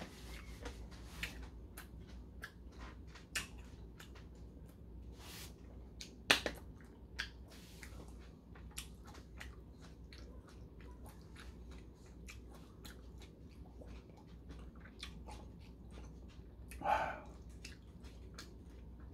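Close-miked chewing of a mouthful of food: frequent small wet clicks and smacks. One louder click comes about six seconds in, and a short louder sound comes near the end.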